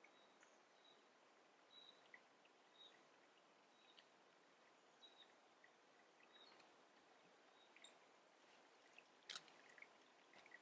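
Faint, thin, short bird calls repeated every second or so, high-pitched, over quiet background hiss, with one sharp click about nine seconds in.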